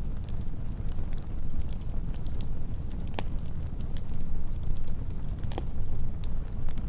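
Campfire burning with a steady low rumble and scattered sharp crackles and pops, a few louder ones about three and five and a half seconds in. A cricket chirps steadily about once a second.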